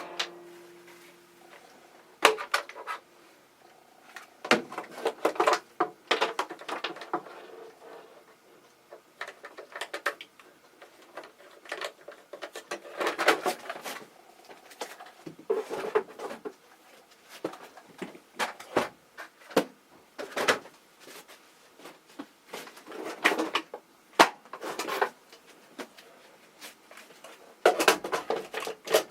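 A motor hum stops with a click at the start. Then come irregular bursts of plastic and metal clicks and rattles with short pauses between them, as a ventilation fan is handled.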